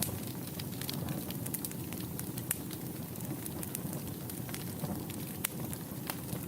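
Wood fire in a fireplace crackling: a steady low rumble of burning with many sharp, irregular pops and snaps, a few louder than the rest.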